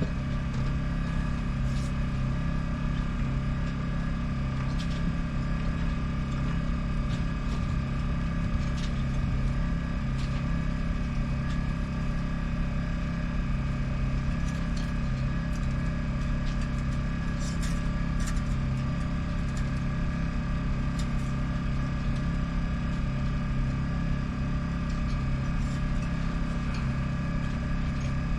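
Yanmar FX24EZ boat's inboard diesel engine idling steadily after an oil and filter change.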